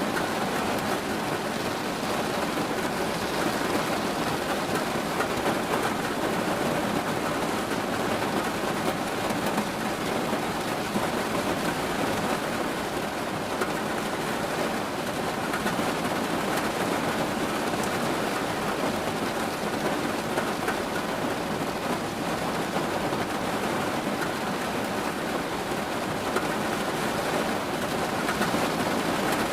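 Steady rain falling: an even, unbroken hiss with no separate drops or thunderclaps standing out.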